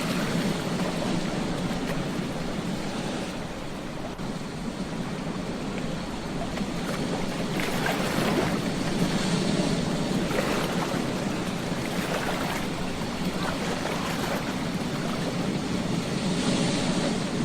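Ocean surf washing on a beach: a continuous hiss of breaking waves that eases a few seconds in, then swells louder about halfway through and again near the end.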